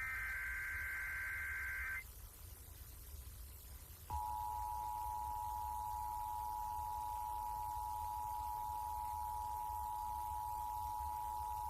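Emergency Alert System tones: a two-second warbling burst of SAME digital header data ends, and about two seconds later the steady two-tone EAS attention signal starts and holds for about eight seconds, announcing a severe thunderstorm alert.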